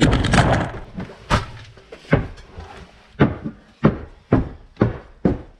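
A clatter, then a run of sharp knocks that come closer together, about two a second near the end. These are most likely wood knocking on wood as cut cherry slabs are handled and stacked.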